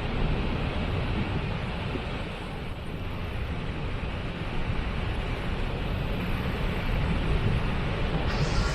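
Waterfall rushing, a steady noisy roar with a strong low rumble; near the end it turns brighter, with more hiss.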